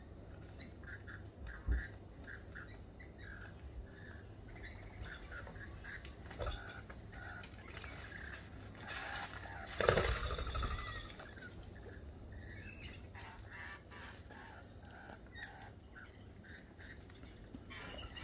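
Birds chirping and calling in short, repeated notes, with a louder flurry of wing flaps about halfway through as a bird takes off from the feeder.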